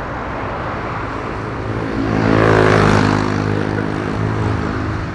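Jet engines of a Boeing 747-8 freighter passing by. The sound swells to a peak about halfway through and then fades, with tones that shift in pitch as it goes past.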